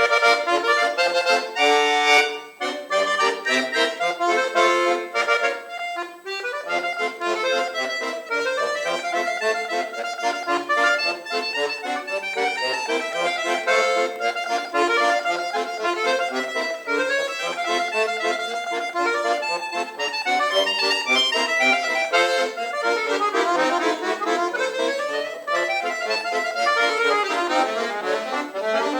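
Solo accordion music: chords and melody on the bellows-driven reeds, with a loud accented chord about two seconds in and a brief break about six seconds in.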